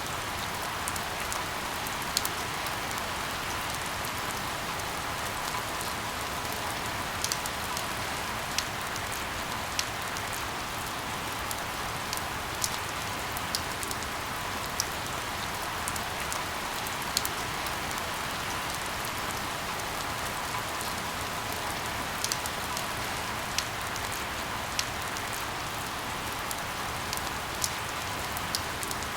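Steady rain falling, a constant hiss with many sharp individual drop ticks scattered through it.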